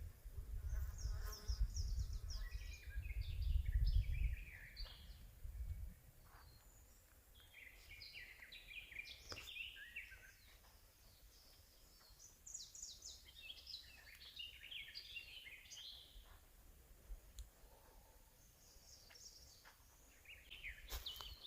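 Several small songbirds singing in a forest, in short, quick, high phrases that overlap and come and go. A low rumble sits underneath for the first six seconds or so, then stops.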